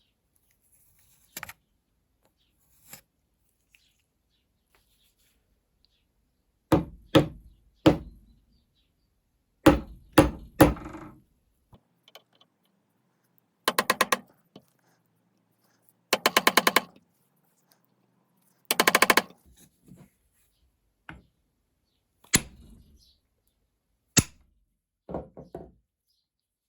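A string of sharp knocks, then three short rattling bursts of rapid, even clicks about a second each, then a few more knocks.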